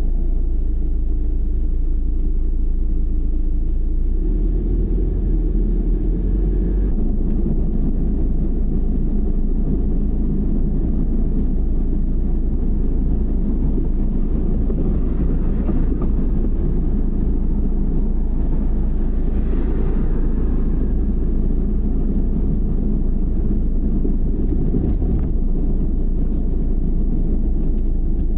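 Car driving along, with steady low engine and road rumble.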